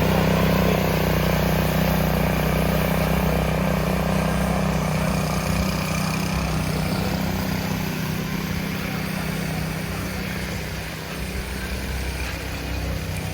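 A vehicle engine running steadily, a low hum that slowly fades, with street noise behind it.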